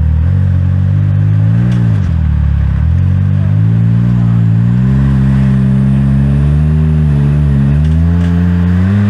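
Side-by-side UTV engine revving under load as the machine backs up over rough rock: a short rev up and drop about two seconds in, then held at higher revs with a wavering pitch, falling away near the end.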